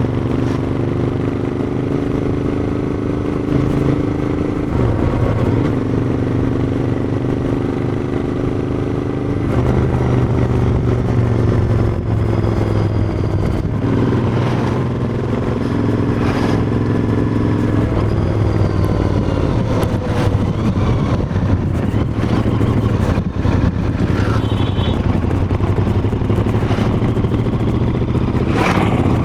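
Royal Enfield Interceptor 650's 648 cc parallel-twin engine running through its exhaust. Its note holds steady, then shifts in pitch several times as engine speed changes.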